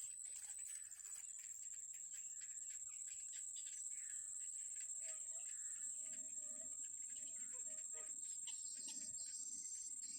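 Birds chirping in short, scattered calls over a steady high-pitched insect drone, with a run of short lower notes repeating from about halfway through.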